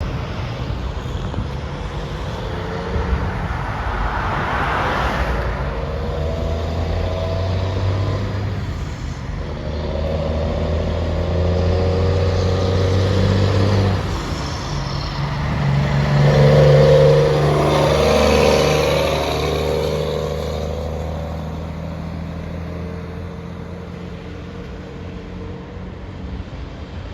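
A semi truck's diesel engine running as the truck moves, with the engine pitch shifting and vehicles passing by. The loudest pass comes about two-thirds of the way through.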